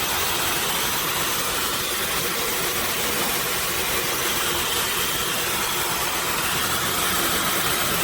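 OSOU ionic hair dryer running on its high speed setting: a steady rush of blowing air with a faint high-pitched whine from its high-speed motor.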